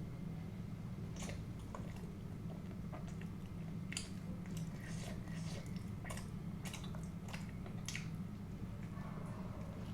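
Close-miked chewing and biting: irregular wet mouth smacks and clicks, every second or so, over a steady low hum.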